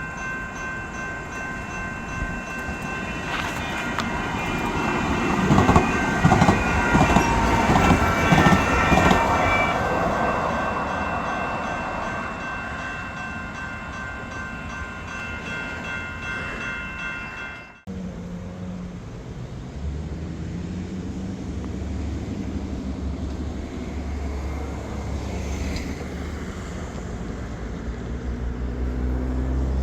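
Light rail train passing, growing loudest about five to ten seconds in over steady high ringing tones. The sound cuts off abruptly about eighteen seconds in and gives way to a lower rumbling hum.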